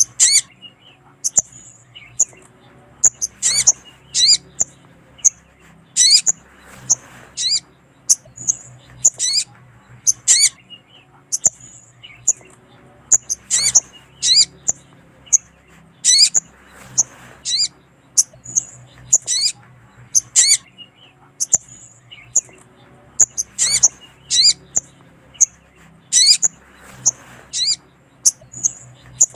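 Sogon (little spiderhunter) calling: sharp, high, quick chirps repeated in short clusters every second or two. These are the female calls that are played to lure in males.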